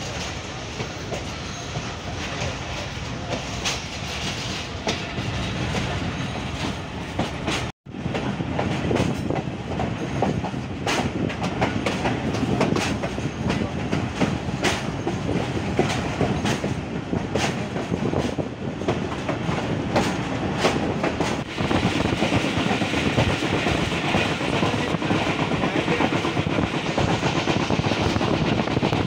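Passenger train running along the track, heard from the coach: a steady rumble with the clickety-clack of wheels over rail joints, louder in the last third. The sound drops out for a split second about eight seconds in.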